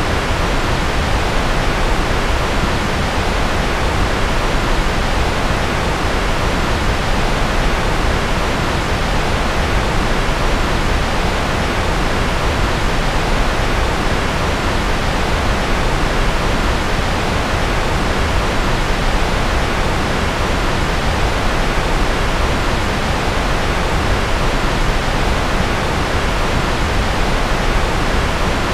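Generated white noise playing as a constant, unchanging hiss at an even level, fuller in the low end and softer at the top, like pink noise.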